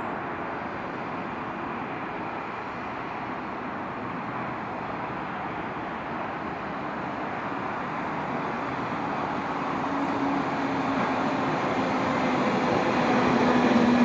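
Merseyrail electric multiple-unit train approaching: a steady rumble grows louder over the second half, and a steady low hum joins it near the end.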